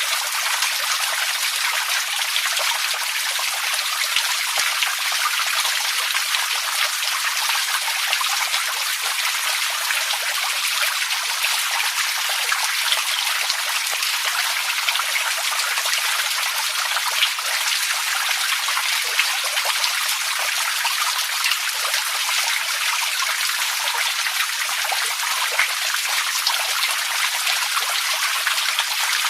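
Running water trickling and splashing steadily, an even bright rush with no change.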